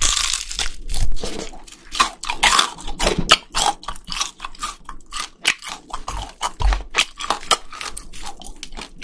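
Close-miked biting and chewing of a crispy fried chicken drumstick: many sharp crunches of the fried coating in quick succession. They come densest in the first few seconds and grow sparser toward the end.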